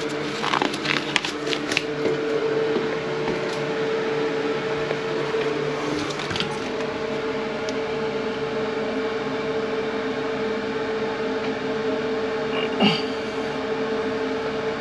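A steady mechanical hum at a fixed pitch, with scattered clicks and knocks about a second in, around six seconds in and near the end.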